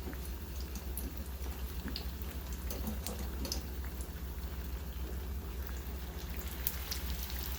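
Spring rolls deep-frying in hot oil: a steady sizzle with scattered small crackles and pops. A steady low hum runs underneath.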